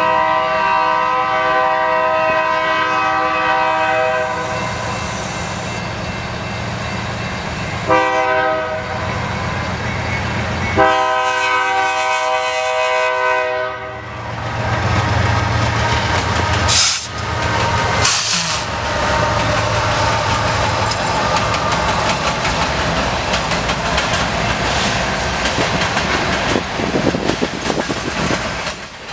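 A diesel freight locomotive's horn sounds a long blast, a short one and a long one as the train approaches. The locomotives then rumble past, followed by the freight cars clattering and clicking over the rail joints, with two brief loud bursts of noise a few seconds after the horn stops.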